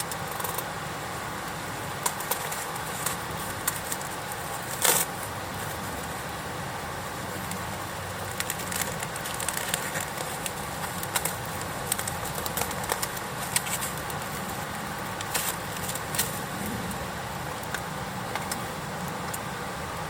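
Wood campfire crackling, with irregular sharp pops and one louder crack about five seconds in, over a steady background hiss.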